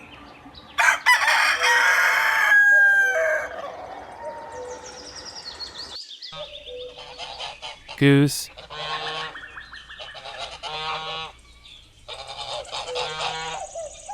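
A rooster crows once, loudly, about a second in, followed by quieter calls. About eight seconds in, a goose starts honking in a series of repeated calls.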